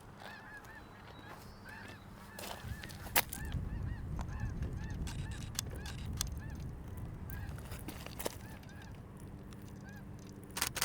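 A flock of snow geese calling, many short honks overlapping without pause. A few sharp clicks, and a rapid run of clicks near the end.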